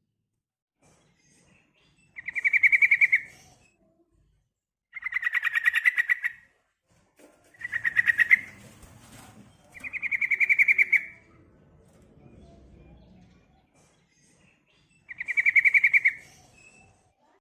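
Yellow-vented bulbul (trucukan) giving five short bursts of rapid chattering notes, spaced a few seconds apart. It is a female's call to males, used to lure other trucukan into singing.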